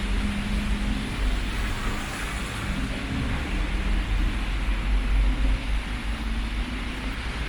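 Steady background noise: a low rumble under a hiss, with a faint hum that comes and goes.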